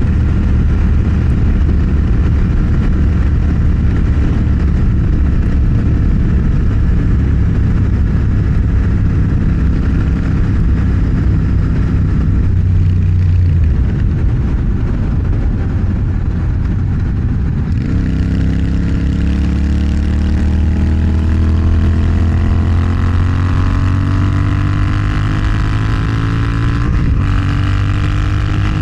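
Motorcycle engine running at a steady cruise, easing off about halfway through, then accelerating with a steadily rising pitch in the last third, briefly interrupted near the end as if for a gear change, over rushing wind.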